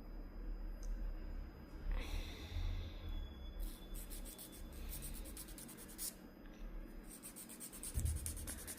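Nail file rasping against a glued, repaired fingernail in quick back-and-forth strokes as the nail is shaped to a point, the strokes coming fastest near the end, with low handling bumps underneath.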